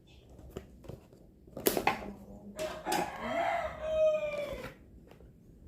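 A rooster crowing once, a long call of about two seconds that holds its pitch and then falls away at the end, with a short loud sound just before it.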